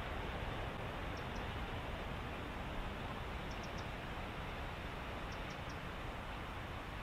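Short high chirps from a small animal in the reeds, in quick groups of two or three repeating about every two seconds, over a steady rushing background hiss.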